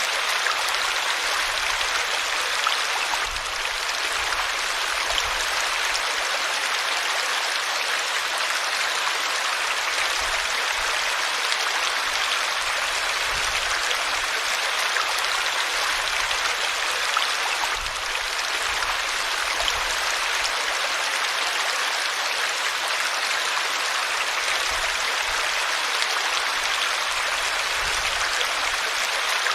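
River water flowing over rocks: a steady rushing hiss of moving water.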